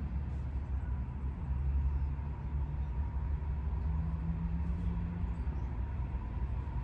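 Low, steady rumble of a distant approaching diesel freight train, led by GE locomotives, with a faint steady whine throughout and a fainter drone in the middle.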